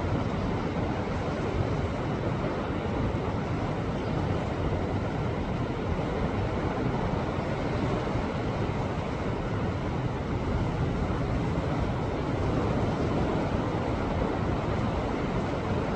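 Sea waves washing against a rocky shore: a steady, unbroken rush of surf without distinct separate breakers.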